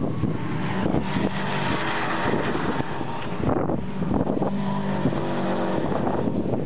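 Saker racing cars with turbocharged Subaru flat-four engines running hard as they pass close by on the track. The engine note is steady and loud, with a few short breaks.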